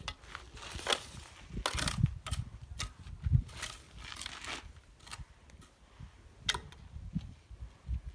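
Irregular scraping, crunching and knocking of hand stone-laying work, with a trowel and slate pieces in mortar. There are sharp clicks at uneven intervals and a few heavier dull thuds, the loudest about three seconds in.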